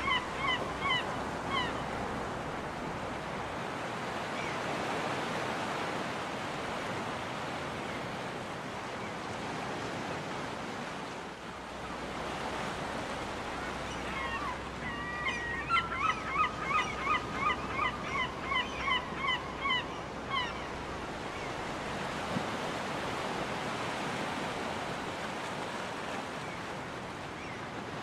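Ocean surf washing steadily onto a beach, with a gull calling in quick repeated series: a short run right at the start and a longer run of about fifteen calls, two or three a second, about halfway through.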